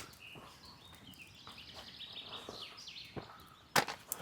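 Birds chirping and singing faintly in the middle, with a few sharp snaps or knocks, the loudest cluster near the end.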